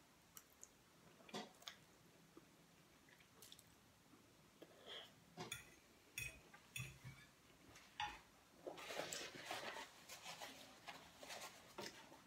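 Faint chewing and wet mouth sounds of a person eating spaghetti, with scattered small clicks and a denser stretch of eating noise about nine seconds in.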